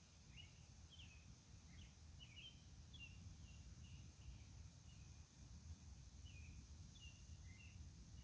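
Faint bird chirping: short, quick calls that bend in pitch and repeat about twice a second, over a low, steady background rumble.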